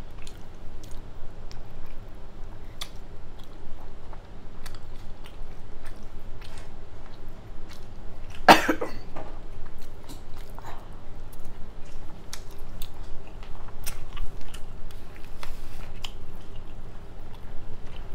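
Close-miked chewing: a person eating, with a run of small wet mouth clicks and smacks. One louder, rougher burst stands out about eight and a half seconds in.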